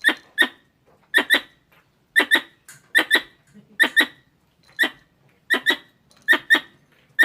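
Squirrel calling: short, sharp squeaky chirps, mostly in quick pairs, repeated about once a second.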